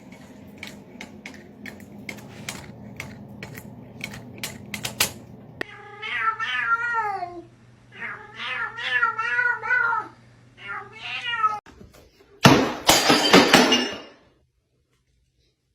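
Cat meowing in three long, wavering calls, after a few seconds of scattered clicks. A loud, noisy burst follows near the end, then the sound cuts out.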